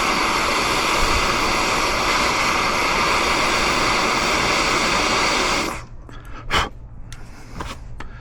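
Handheld gas torch flame hissing steadily while heating seized door screws to break them loose, then shut off suddenly about six seconds in, followed by a few light clicks and taps.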